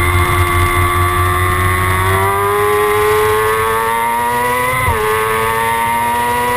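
Kawasaki ZX-6R's inline-four engine accelerating, its pitch climbing slowly, then dropping sharply at an upshift about five seconds in before climbing again.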